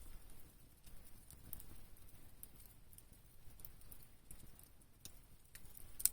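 Campfire crackling faintly, with irregular pops and snaps of burning wood and one sharper pop near the end.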